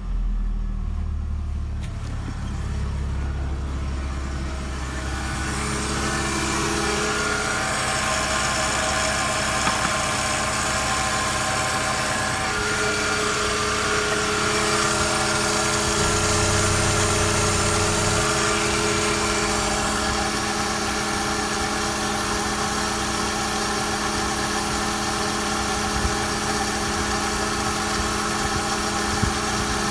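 Skoda Octavia 2.0-litre AQY four-cylinder petrol engine idling steadily, with a hiss that grows in after about five seconds.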